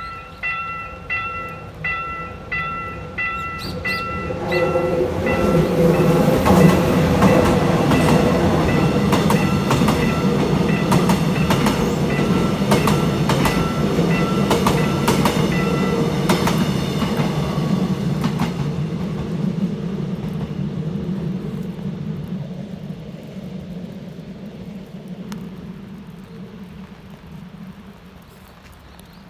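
Level-crossing warning bell ringing about twice a second, then a train passing over the crossing, its wheels clicking over the rail joints. The rumble is loudest about seven seconds in and fades away over the last ten seconds, and the bell keeps sounding under it until about sixteen seconds in.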